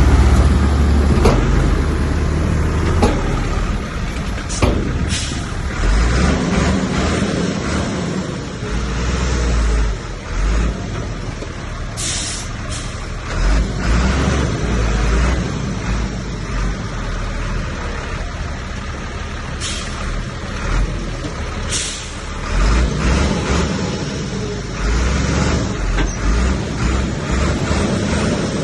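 Heavy diesel earthmoving machinery working: a continuous deep engine rumble that swells and eases, with a few short, sharp sounds about twelve, twenty and twenty-two seconds in.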